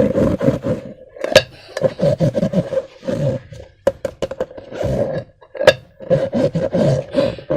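Slime and rubber balloons being squeezed and rubbed by hand: irregular wet squelching and rubber rubbing in short bursts, with two sharp clicks about a second and a half in and near the end.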